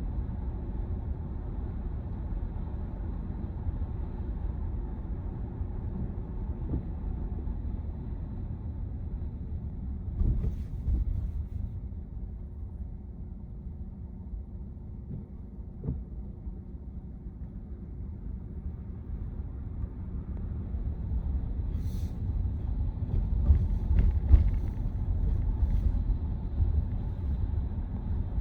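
Steady low road and tyre rumble inside the cabin of an electric Tesla Model Y on the move, with no engine note and a few brief thumps from bumps in the road.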